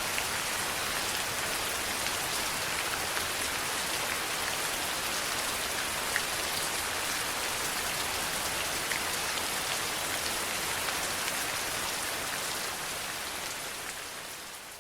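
Steady heavy rain, a dense hiss with scattered drops ticking, fading out over the last few seconds.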